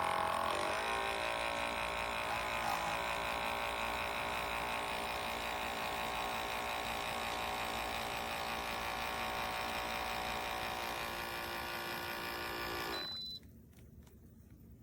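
Wacaco Pixapresso portable electric espresso machine's pump running steadily while it brews a shot from a coffee capsule. It cuts off suddenly about thirteen seconds in, at the end of the extraction.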